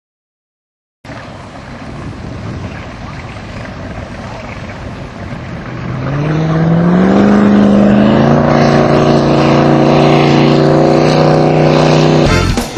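Supercharged 468 ci Chevy V8 in a jet boat running out on the water, with a rush of noise at first. About halfway through it revs up and then holds a steady high pitch until it cuts off just before the end.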